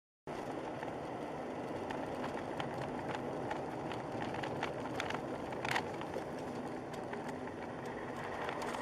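Steady road and engine noise of a moving car as a dash camera picks it up inside the cabin, with scattered faint clicks. It starts abruptly just after the beginning.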